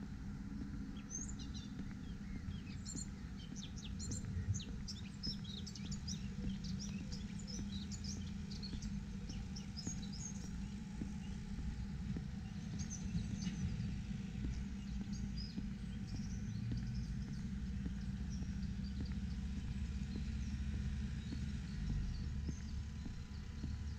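Small birds chirping in quick short notes, busiest in the first half and thinning out later, over a steady low outdoor rumble.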